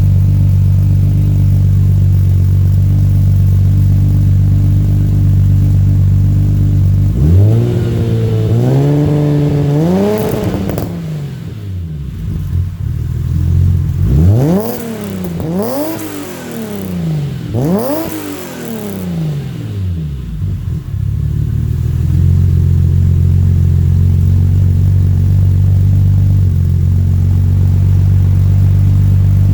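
BMW E30 M3 with a swapped-in S38 straight-six engine, heard through its exhaust. It idles steadily, is revved up and held for a few seconds, then blipped three times in quick succession, and settles back to idle.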